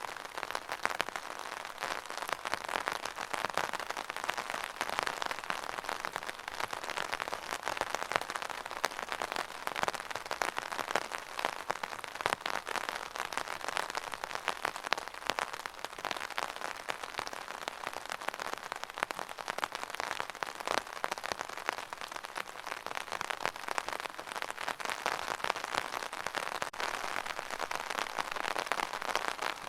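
Steady rain, a dense patter of many small drops pattering on a surface.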